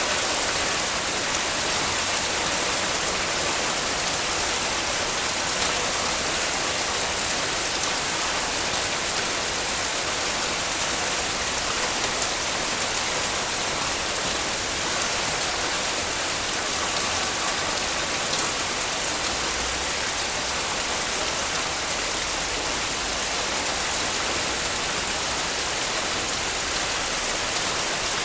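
Heavy rain falling, a steady dense hiss of drops with no let-up.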